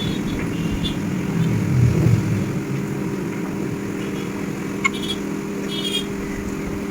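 Steady mechanical hum, with a single sharp click about five seconds in.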